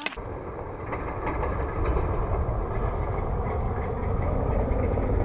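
A vehicle engine running with a low, steady rumble that grows gradually louder.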